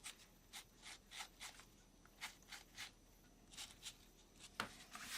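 Faint, short rubbing strokes of a tissue wiping excess superglue off a small model pallet, about a dozen light swipes, with a sharper tap near the end.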